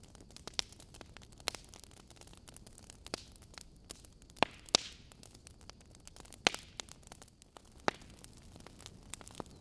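Logs burning in a fireplace, crackling with sharp, irregular pops over a faint steady hiss; two loud pops come close together about four and a half seconds in, and another about two seconds later.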